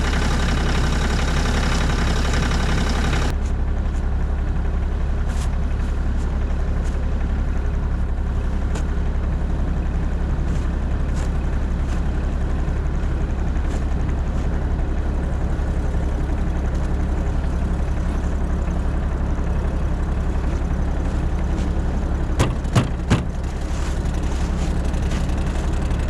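Bobcat E50 compact excavator's diesel engine idling steadily while it warms up after a cold start. A few sharp knocks come near the end.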